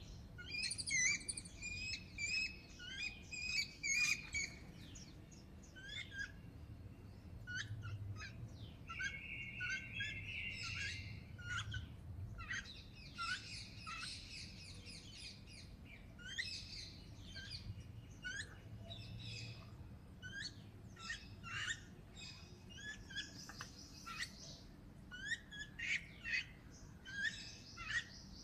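A group of babblers calling: many short chirps and chattering calls in quick succession, some overlapping, including a fast run of repeated notes about a third of the way through.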